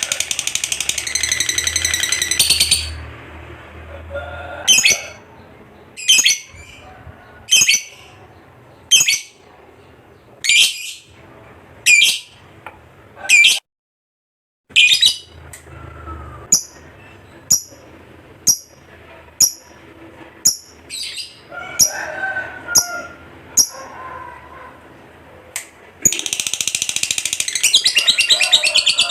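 Lovebird singing: a long, rapid chattering trill ("ngekek") for the first few seconds, then single sharp high chirps about one a second. The long rapid trill starts up again near the end.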